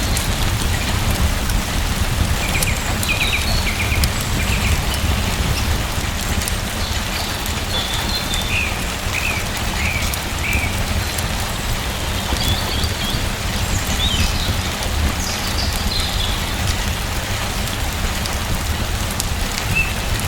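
Steady rain falling, with a deep low rumble under it and scattered small ticks of drops. Short bird chirps come and go throughout.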